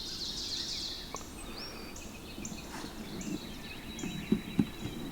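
Songbirds singing: a series of short, high whistled notes repeating about twice a second, with a few sharp knocks a little over four seconds in.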